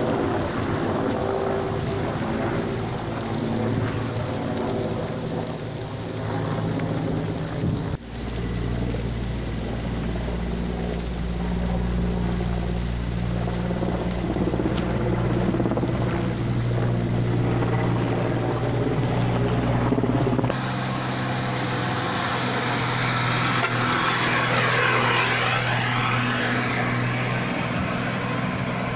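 Vehicle engines running steadily, in shots spliced together that change abruptly about 8 and 20 seconds in.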